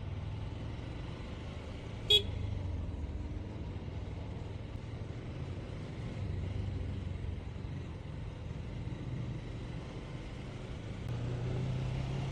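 Motorcycle engine running steadily, with one short horn toot about two seconds in; the engine note rises a little near the end.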